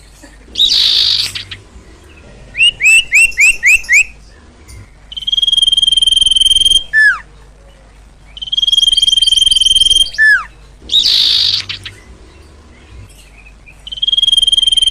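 Calls of the bird known in Indonesia as the sirtu or sirpo, played as a lure recording. Long steady whistles each end in a quick falling slur, with a fast run of five rising chirps and short hissing bursts in between. The sequence repeats in a regular cycle.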